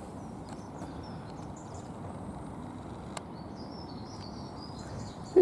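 Steady outdoor background noise with faint, scattered bird chirps, and a single sharp click about three seconds in.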